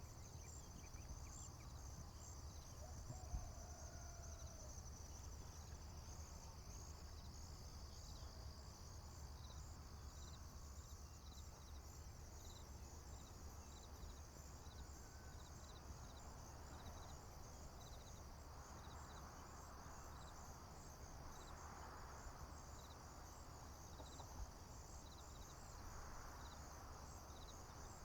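Crickets and other field insects chirping faintly: a steady high pulsing trill with a separate, regularly repeated short chirp about once a second. A few faint bird calls come in the first half.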